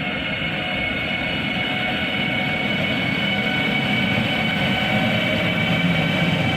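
Train running through, with a steady rumble and a steady high-pitched whine, growing slowly louder.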